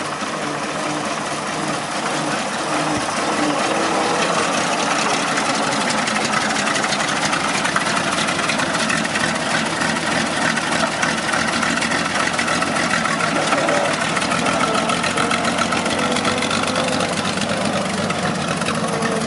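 Old Diamond T truck's engine running steadily at idle, growing a little louder over the first few seconds.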